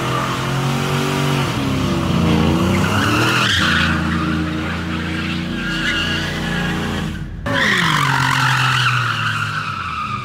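Vehicle spinning donuts: the engine revs up and down repeatedly while the tires squeal and skid continuously. The sound cuts out briefly about seven seconds in.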